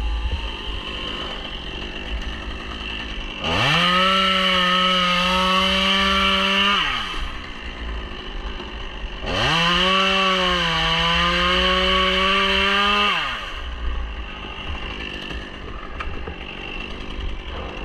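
Chainsaw revved up to full throttle twice, each run lasting about three to four seconds, its pitch sagging slightly as the chain cuts into the wood. It drops back to a low idle in between and after.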